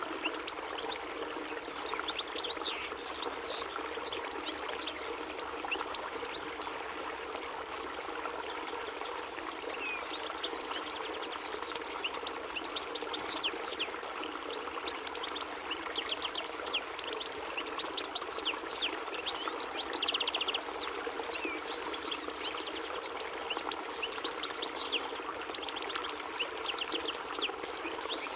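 European goldfinch singing: bursts of quick, high twittering notes with short gaps between phrases, over a steady rushing noise.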